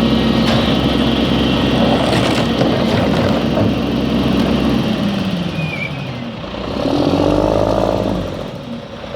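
Garbage truck engine running, then revving up about seven seconds in and settling again, the kind of rev that drives the hydraulic packer as it compacts trash.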